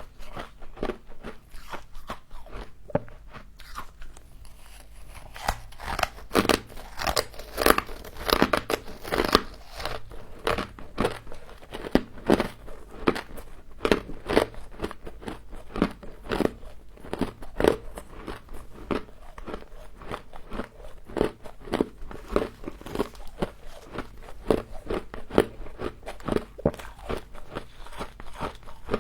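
A person biting and chewing frost ice: a continuous run of sharp crunches, several a second.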